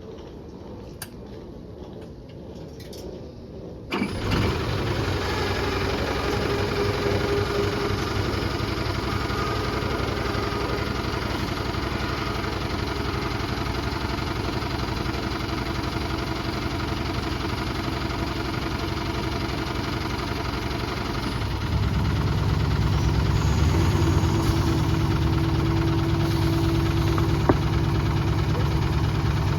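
City bus diesel engine starting: a few faint clicks, then about four seconds in the engine catches at once and settles into a steady idle. About twenty-two seconds in, the idle gets louder and deeper.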